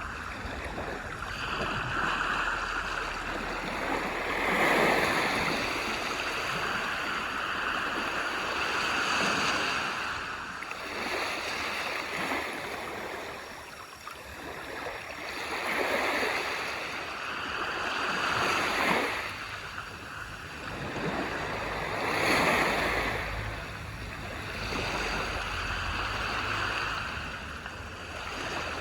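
Small waves breaking on a beach and washing up the shore, a swell of surf every few seconds between softer lulls.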